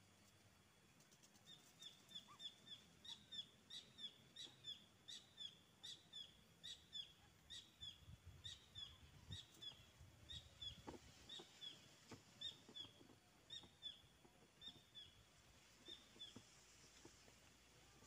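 A bird calling faintly: a steady run of short, high chirps, about two to three a second, each a quick falling note. The run starts a second or two in and stops near the end.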